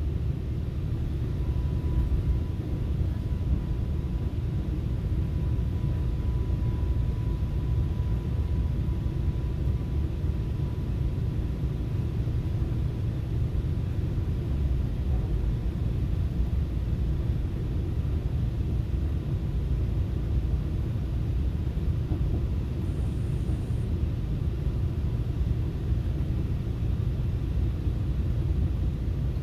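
Steady low rumble of a FrontRunner commuter train in motion, heard from inside the passenger coach, with a faint high steady tone over it for roughly the first dozen seconds.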